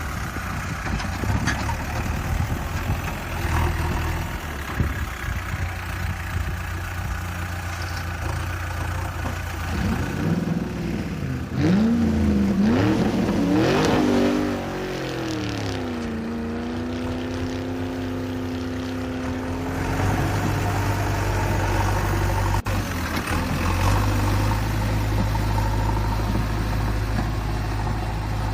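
An engine-like motor sound running steadily with a low hum, revving up and down in pitch about ten seconds in, then holding a steady higher drone for a few seconds before settling back to the low hum.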